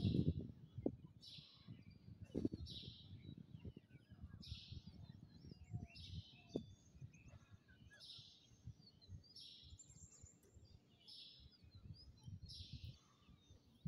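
Birds calling in the trees: a short high call repeated about once a second, with scattered thin chirps among it. Underneath runs an uneven low rumbling noise on the microphone, loudest near the start.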